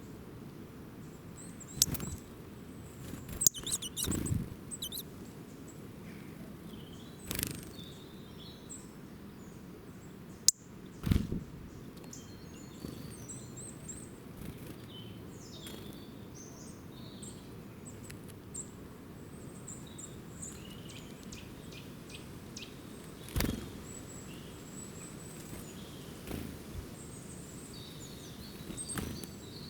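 Small birds chirping in short, scattered high calls over a steady outdoor background noise. Several sharp clicks or knocks come through, most of them in the first dozen seconds and one more a little past the middle.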